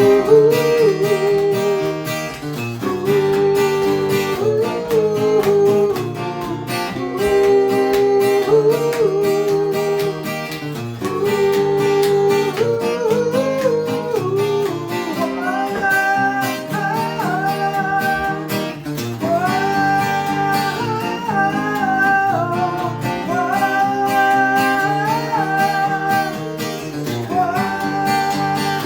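Acoustic guitar played with a cross-picked accompaniment, with a wordless melody of long held, gliding notes over it that climbs higher about halfway through.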